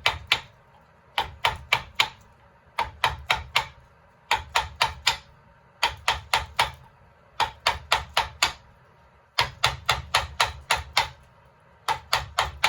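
Mallet tapping a carving chisel into wood in quick runs of four to six sharp strikes, with short pauses between the runs.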